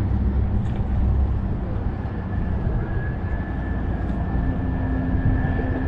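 Steady low rumble of wind buffeting the microphone over a waterfront, with a faint, thin, steady high tone coming in about two seconds in and holding through the rest.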